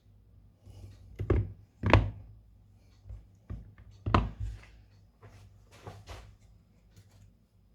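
Irregular knocks and clicks of tools and parts being handled and set down on a workbench. There are about six, the loudest about two and four seconds in.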